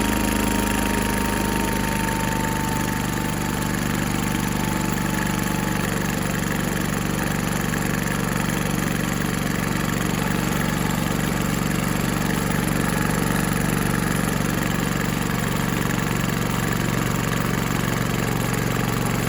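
Allis-Chalmers garden tractor's Kohler engine running steadily on its first run after a head gasket replacement.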